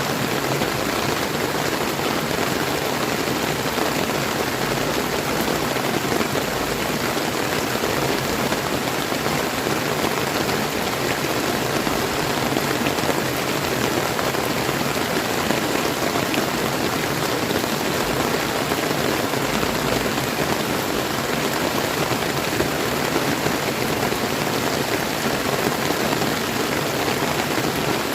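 Steady rain falling together with a flowing river, an even, unbroken hiss of water.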